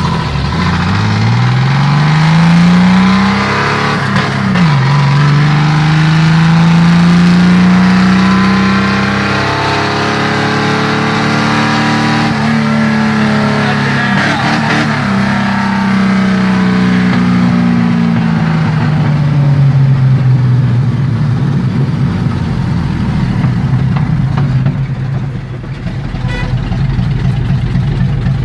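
Chevrolet 400's straight-six engine on an open exhaust, pulling through the gears. The revs climb, drop at a shift about four and a half seconds in, and climb again. Later they fall away in a long sweep and settle to a lower, steadier run in the last several seconds.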